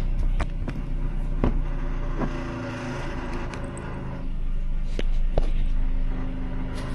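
A vehicle engine idling, a loud mess by its owner's account, with several sharp clicks and knocks over it.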